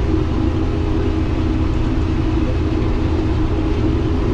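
Combine harvester running steadily while combining corn: an even, loud low drone with a few steady hum tones over it.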